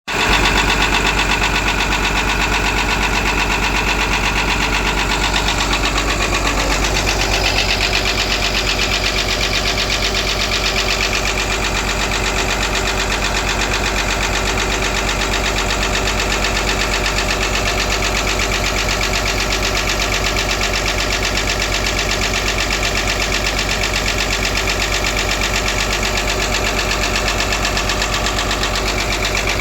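Caterpillar excavator diesel engine running steadily with a fast, even knocking pulse and several steady tones: an abnormal sound that the mechanic puts down to the rear (back) compressor. The pitch of the tones shifts slightly about seven seconds in.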